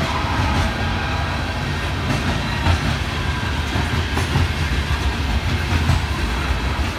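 Freight train of tank cars rolling past at close range: a steady low rumble of steel wheels on rail, with scattered clicks as the wheels cross rail joints.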